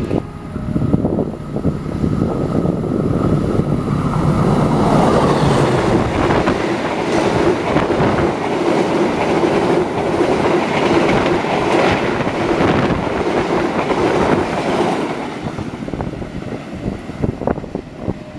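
Diesel-hauled passenger train passing close by: steel wheels clicking rhythmically over the rail joints, with a steady hum from the coaches rolling past. The sound fades as the train pulls away near the end.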